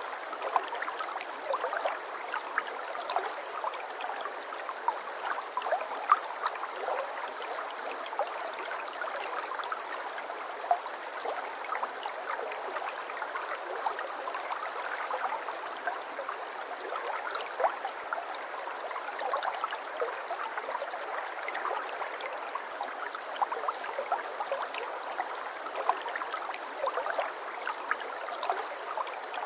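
Shallow brook babbling over stones: a steady rushing of water with many small splashes and gurgles scattered through it.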